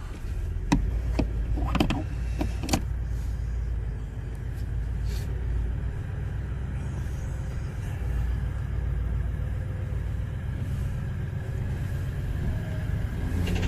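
Four-wheel-drive vehicle's engine running with a steady low rumble as it crawls up a rocky track. A few sharp knocks in the first three seconds.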